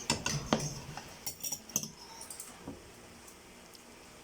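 A few light clinks of cutlery against dishes, mostly in the first two seconds, then quieter.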